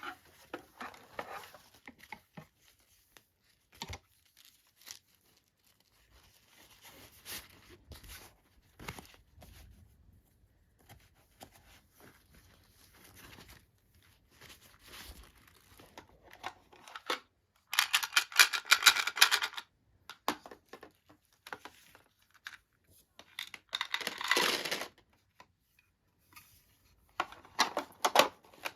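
Plastic packaging being torn open and crinkled by hand, with scattered light clicks and taps. Two loud bursts of tearing and crinkling come past the middle, and another starts near the end.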